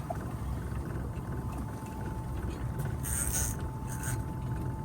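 Boat engine running steadily with a low rumble and a faint steady whine, and a brief hiss about three seconds in.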